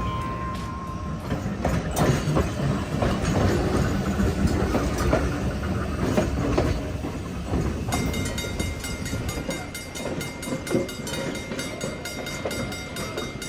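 Chicago Surface Lines streetcar #1374 running along its track: a steady rumble with irregular clicks and knocks from the wheels and the car body. About halfway through, a steady high whine joins in.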